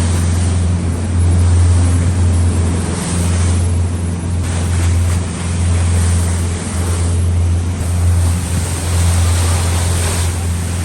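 Fast passenger ferry under way: a steady low engine drone with rushing water from the hull and wind buffeting the microphone.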